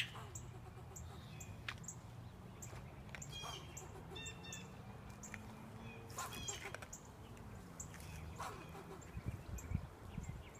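Squirrel barking: short, harsh alarm calls every second or two, some in quick rattling runs, scolding a person close by. The loudest calls come about six seconds in.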